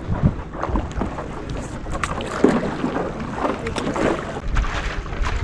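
Paddle strokes splashing and dripping in the water, with irregular clicks and knocks, and wind buffeting the microphone.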